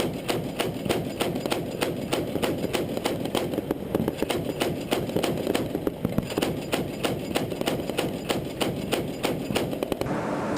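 Automatic gunfire: a steady string of shots at about three a second, over a constant low rumble.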